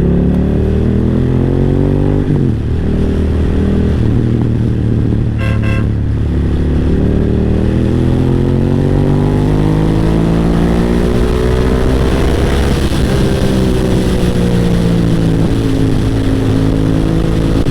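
BMW F900R's parallel-twin engine running under way, its pitch rising through a gear, dropping at a shift about two seconds in, then building for several seconds and easing off. The engine runs smoothly with no stumbling. A brief horn toot sounds about five seconds in.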